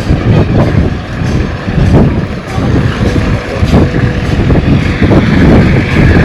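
Wind buffeting the microphone outdoors: a loud, gusting rumble that rises and falls.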